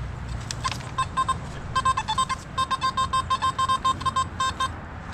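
Metal detector beeping over a buried target: a high beep repeated several times a second, starting about a second in, with a short break near the end.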